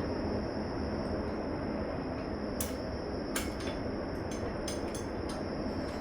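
Steady rumble of a passing train, with several sharp metallic clinks of hand tools against the car in the second half.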